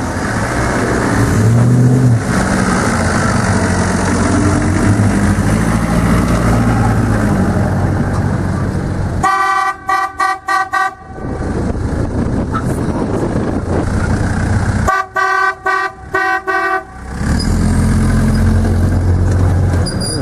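Car engines running, with two runs of short, quick horn toots, the first about halfway through and the second a few seconds later.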